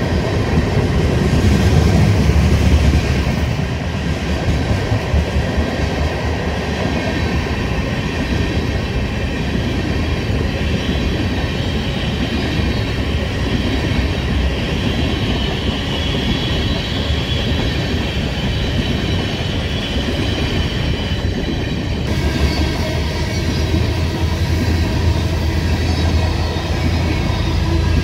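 Tank cars of a freight train rolling past, a steady rumble of steel wheels on rail. A thin high squeal from the wheels is strongest in the middle.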